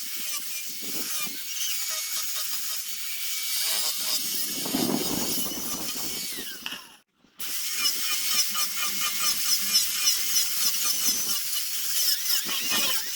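Hand-held power sanding tool abrading a zelkova root workpiece, a steady high-pitched grinding scrape that cuts out for a moment about seven seconds in and then resumes.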